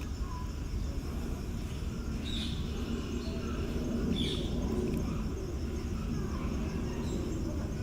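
Outdoor ambience: a steady low rumble with a faint high insect buzz, and two short high chirps about two and four seconds in.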